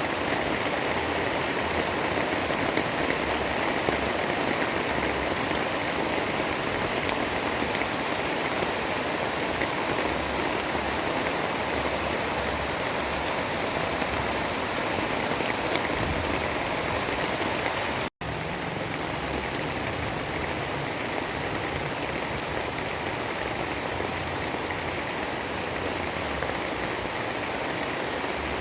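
Steady heavy rain, an even hiss with no distinct drops. It cuts out for an instant about two-thirds of the way through and resumes slightly quieter, like a loop splice.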